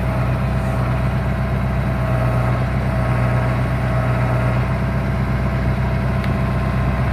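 Tractor engine running steadily at an even speed, with no post-knocker blows heard.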